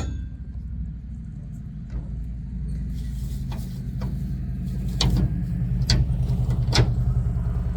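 A motorbike engine running with a low, steady hum that grows louder. Several short, sharp metallic clicks come over it in the second half, with one sharp clank at the very start.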